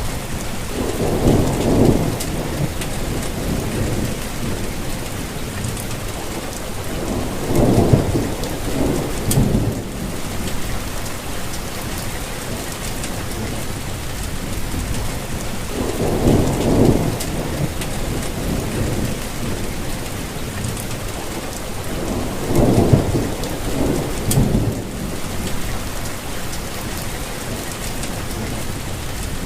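Steady rainfall with scattered drop ticks, and low rumbles of thunder rolling in every several seconds, each lasting a second or two.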